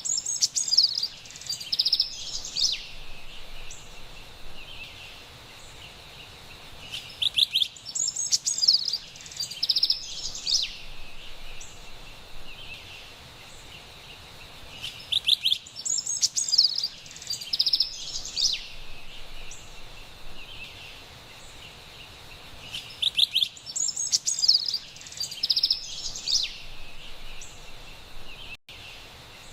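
Carolina wren singing: four loud bouts of rapid, repeated trilled phrases, each about three seconds long and coming roughly every eight seconds. A faint steady background hiss runs underneath.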